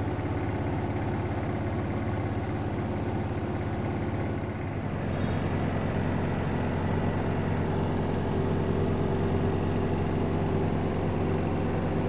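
Siemens WN64A2U9IN front-loading washing machine in its final spin at 1400 RPM: a steady machine hum from the spinning drum and motor. About five seconds in, the hum shifts and grows a little louder.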